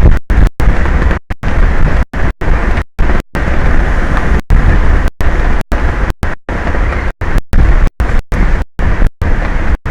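Loud wind rumble on an exposed outdoor microphone, a rough noise heaviest in the low end. It is broken over and over by brief gaps of total silence where the stream's audio drops out.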